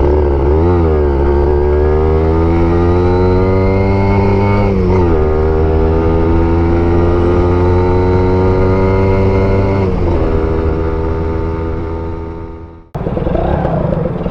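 Kawasaki Ninja 150 RR's two-stroke single-cylinder engine accelerating through the gears, its pitch climbing steadily and dropping at each upshift, about every five seconds. The engine sound fades and cuts off abruptly near the end.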